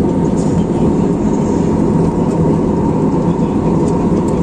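Steady drone of an airliner's engines and airflow heard inside the cabin in flight, with a thin steady whine over it.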